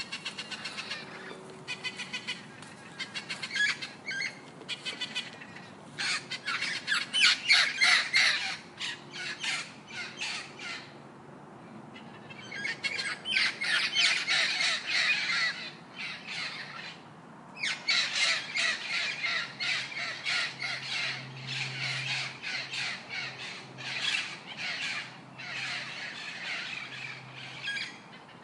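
Parrots squawking: long runs of rapid, harsh calls repeated many times a second, with two short pauses, one about eleven seconds in and one about seventeen seconds in.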